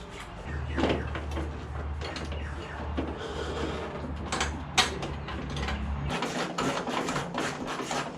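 Mechanical clicking and clattering with a few sharper knocks, over a steady low hum that drops out about six seconds in.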